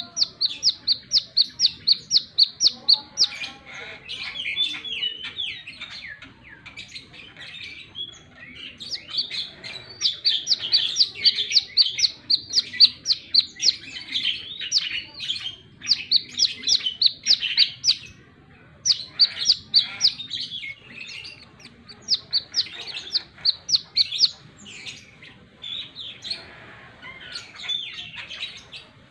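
Brown-throated sunbird (kolibri kelapa) calling its rapid 'wiceh' series: sharp, high notes repeated about eight a second in runs of a few seconds, with short pauses between runs.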